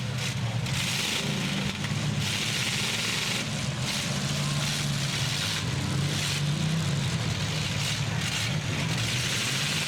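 Several demolition-derby trucks and SUVs running together, their engines making a steady low drone under a hiss of exhaust noise.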